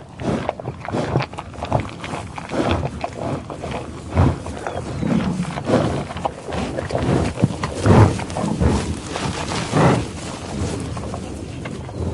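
Lion growling and roaring in irregular, repeated calls, the loudest about eight seconds in.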